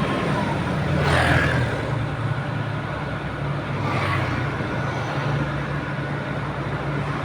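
An engine running steadily with a low hum, with two brief whooshes about a second and four seconds in.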